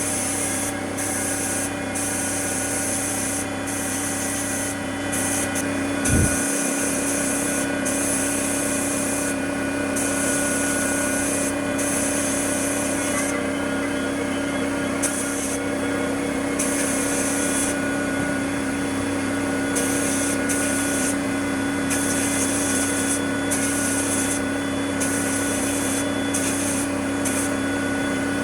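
An electric power tool's motor runs at a steady pitch throughout. A high grinding or sanding hiss cuts in and out every second or two as the tool is worked against the part, and there is one low thump about six seconds in.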